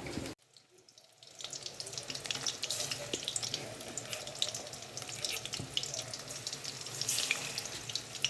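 Chicken pieces deep-frying in hot oil, a dense steady sizzle and crackle. It cuts out for about a second near the start, then resumes.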